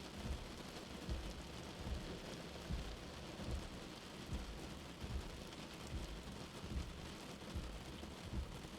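Steady rain heard from indoors, with a soft heartbeat thumping underneath at a slow even pace, about five beats every four seconds.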